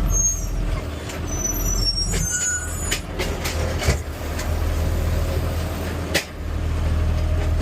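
Garbage truck engine running steadily while the truck's lifting arm works, with short high squeaks in the first couple of seconds and sharp knocks about four and six seconds in.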